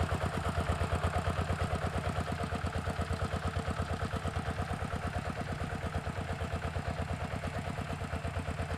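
Walking tractor's engine running steadily with an even chugging beat of several strokes a second.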